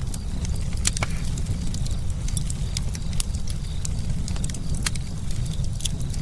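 Campfire burning, with irregular sharp pops and snaps of crackling wood over a steady low rumble of the flames. The loudest pop comes about a second in.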